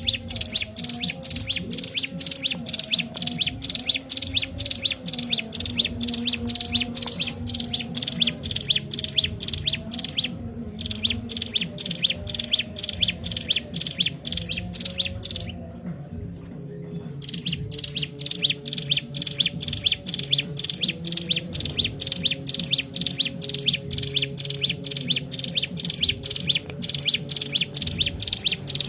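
Ciblek gunung (a prinia) singing gacor: a fast, insistent series of sharp high chirps, about three a second. It breaks off briefly around a third of the way in and again for a couple of seconds past the middle. A steady low hum runs underneath.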